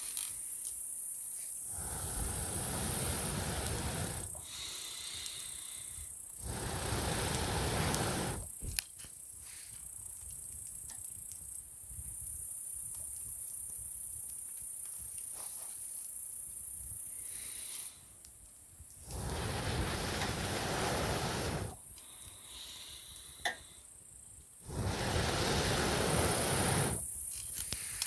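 Wood campfire being fanned with a fire-blowing pipe: four long whooshing puffs of air of about two seconds each, with a couple of sharp crackles from the burning wood. Crickets or other insects shrill steadily behind.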